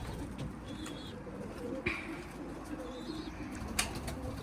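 Racing pigeons cooing steadily in a low, wavering murmur, with a few short high chirps above it. Two sharp clicks, about two seconds in and near the end, the second the loudest.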